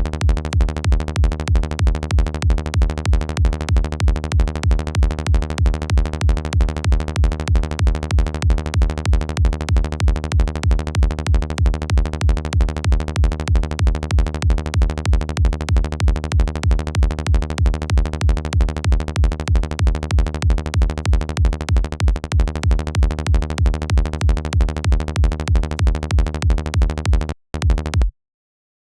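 Synthesized electronic kick drum and bass loop playing back from a DAW: a deep kick hits about twice a second, with synth bass filling the gaps between the hits. Near the end the loop stops, restarts for a moment and then cuts off.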